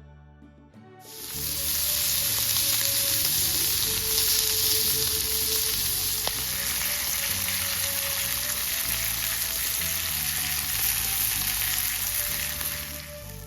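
Beef steak sizzling loudly in a hot pan, starting about a second in and stopping abruptly just before the end, with quiet background music underneath.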